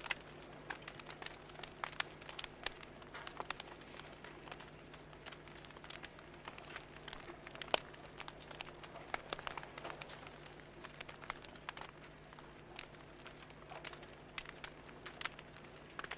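Wood fire crackling, with irregular small pops and snaps all the way through and a faint steady low hum underneath.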